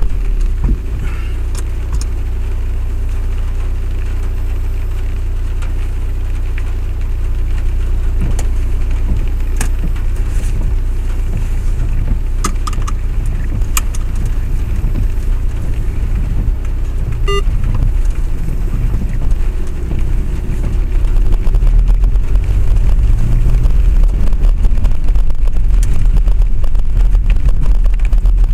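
A vehicle running, heard from on board: a loud, steady low rumble with a few sharp clicks, growing louder about twenty seconds in.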